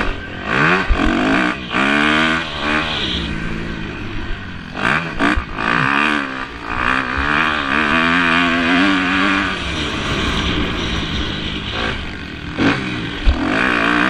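Motocross bikes racing past, their engines revving up and down again and again as riders accelerate and shift, with several bikes overlapping in the middle stretch.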